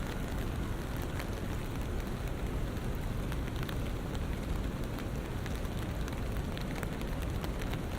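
Steady rain on a city street: a continuous hiss full of small drop ticks over a low, constant rumble of city traffic.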